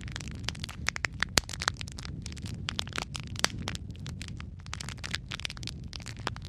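Wood logs burning in a fireplace, crackling constantly with sharp pops of burning wood over a low steady rumble of the flames; a couple of louder pops stand out, one about a second and a half in and another about three and a half seconds in.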